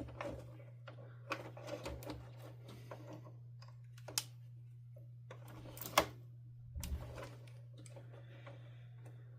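Scattered small clicks, taps and rustles of hands handling the vacuum's plastic parts and wiring connectors, with a sharper click about six seconds in, over a faint steady low hum.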